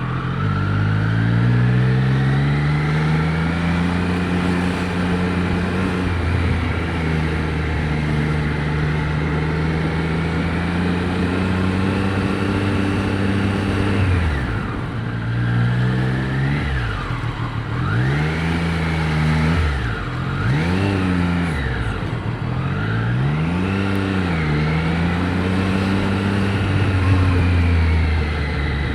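Triumph Street Triple 765 RS's inline three-cylinder engine, heard through a mic inside the rider's helmet, with wind rush. The engine pulls up in pitch at first and then holds a steady cruise. In the middle it drops off and climbs again several times as the rider slows, revs and shifts, then settles back to a steady pull near the end.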